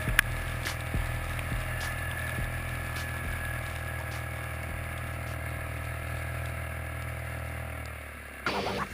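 Polaris Trail Boss 325 ATV engine running at a steady speed, with a few faint clicks.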